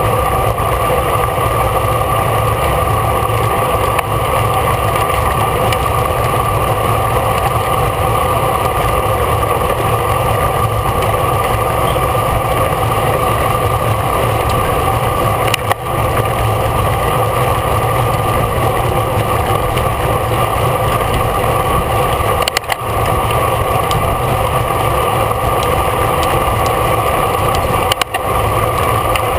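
Steady, loud rushing wind and road noise on a camera carried on a racing bicycle moving at race speed, with a constant low rumble and a few steady whistling tones, briefly cutting out three times.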